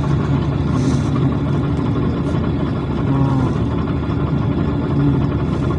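Cabin sound of a PAZ-422320-04 Citymax 9 city bus under way: a steady low engine hum over road and body noise.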